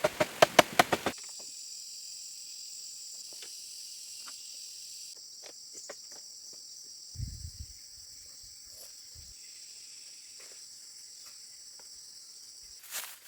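Insects chirring steadily in a high, even band. A quick run of sharp knocks stops about a second in, a low thud comes at about seven seconds, and sharp knocks start again near the end.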